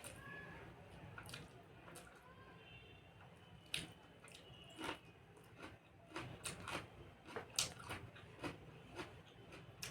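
A person eating rice and fish curry close to the microphone: chewing with irregular soft clicks and wet smacks, which come more thickly in the second half.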